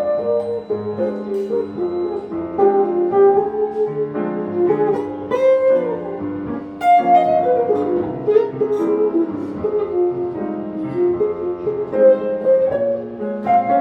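Jazz piano and acoustic guitar playing an instrumental passage together, with melodic lines moving over sustained chords.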